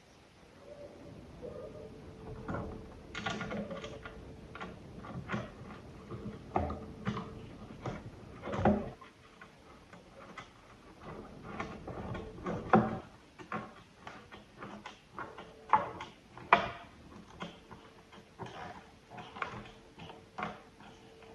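Irregular clicks, taps and knocks of small hard parts and tools being handled, a few of them louder, with a faint steady tone in the first few seconds and again near the end.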